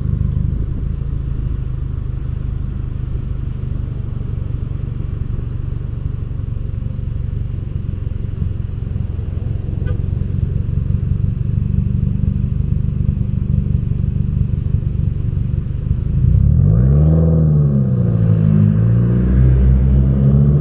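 2015 Subaru WRX's turbocharged flat-four exhaust droning steadily while cruising. About 16 seconds in it gets louder and the engine pitch rises, falls back, and rises again as the car accelerates.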